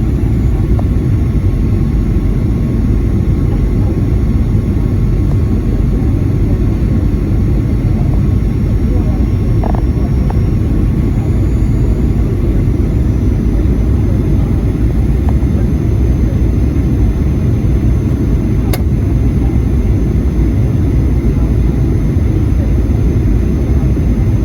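Steady low rumble of a Boeing 737-800's engines and airflow heard from inside the passenger cabin, with a single sharp click about three-quarters of the way through.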